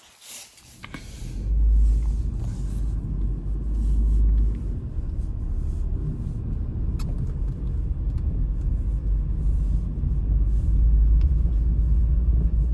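Strong storm wind gusting against the microphone, a deep unsteady rumble that comes in about a second and a half in and holds to the end.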